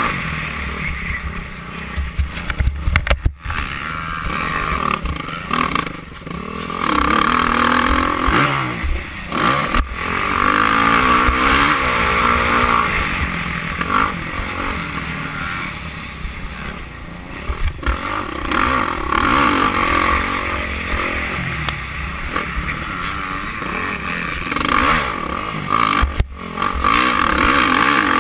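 Motocross bikes racing, engines revving up and down in repeated rising and falling whines, several bikes overlapping.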